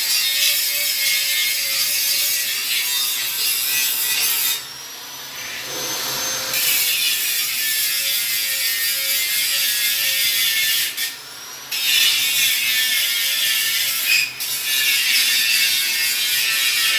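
Welding on a steel Jeep frame cross member: a steady crackling hiss from the welding arc. It stops for a couple of seconds about four and a half seconds in, then briefly twice more when the weld is paused.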